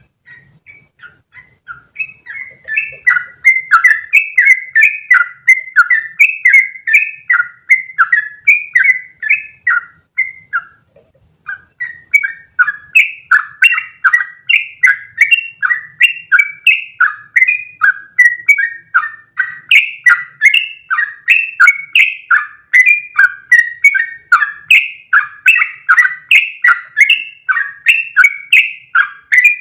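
Yellow-vented bulbul (trucukan) singing a long, rapid run of short bubbly notes. The run breaks off briefly about ten seconds in, then carries on without pause.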